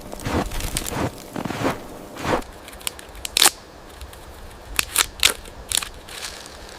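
Footsteps crunching in dry, hard snow, uneven and about two a second, with a few sharper snaps in the second half.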